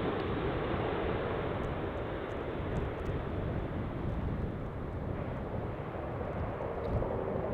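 Jet airliner on short final passing close by, its engine noise a steady rush that eases a little later on.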